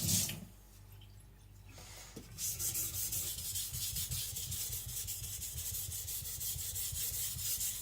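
Tojiro shirogami nakiri being stroked back and forth on a wet Naniwa Professional water stone, grinding the edge bevel lower. It is a steady run of quick, even scraping strokes that starts about two seconds in, after a running tap cuts off at the very start.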